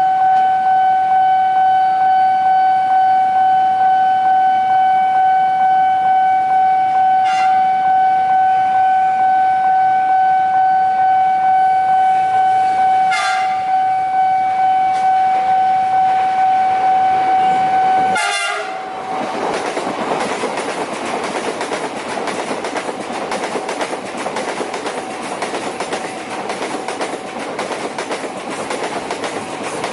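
A level-crossing alarm sounds a steady pulsing tone, broken by short horn blasts about 7 and 13 seconds in. About 18 seconds in, a loud blast comes as a long train arrives, and the alarm gives way to the rushing, clattering noise of the train passing at speed.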